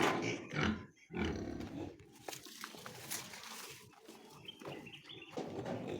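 Pigs grunting and squealing, harsh calls that are loudest in the first two seconds and then die down to scattered quieter grunts.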